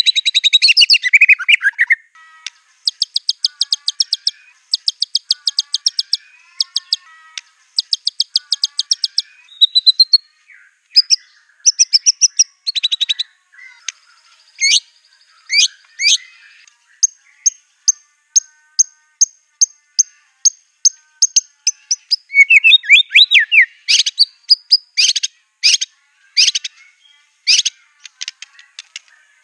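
White-rumped shama (murai batu) singing. It gives bursts of fast, dry rattling trills, then a steady run of high piping notes at about five a second, then loud, sharp downward-sweeping whistles.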